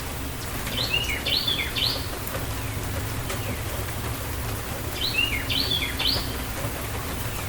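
Steady rain falling, with a songbird singing a short phrase of a few quick chirps twice, about a second in and again about five seconds in.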